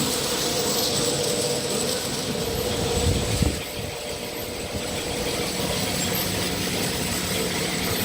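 Vial washing machine running: a steady mechanical whirr and hiss with faint constant tones, and one brief low thump about three seconds in.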